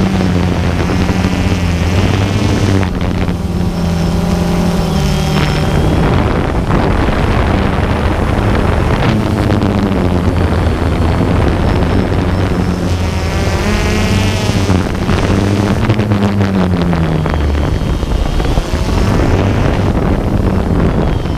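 DJI Phantom 2 quadcopter's brushless motors and propellers buzzing in flight, the pitch stepping and gliding up and down as the motors change speed, with wind noise on the microphone.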